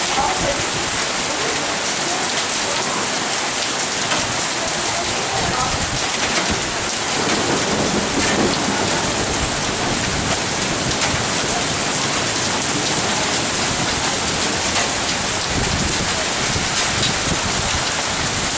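Heavy rain pouring steadily onto surfaces in a storm, a dense even hiss, with a few low rumbles partway through.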